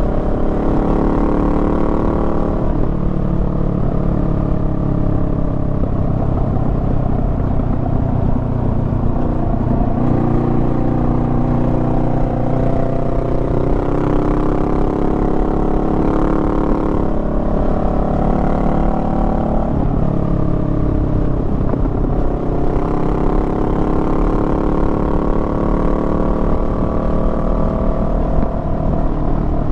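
Honda Rebel 500's parallel-twin engine running under way. Its pitch climbs, then breaks or drops several times as the rider rolls on the throttle, shifts and backs off through the bends.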